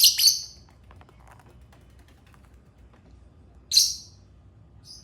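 Lovebirds calling with short, shrill chirps: two or three quick ones at the start, another about four seconds in, and a faint one near the end.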